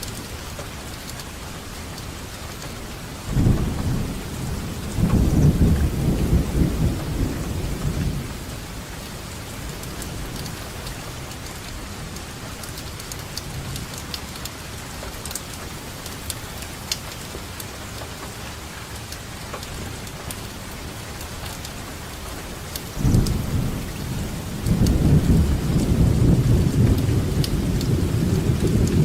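Steady rainfall with drops pattering, and rolling thunder rumbling twice: once from about three to eight seconds in, and again from about 23 seconds in, running on past the end.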